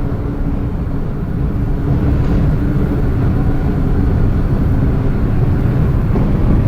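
Inside an R160B subway car: a steady low rumble with a constant hum under it.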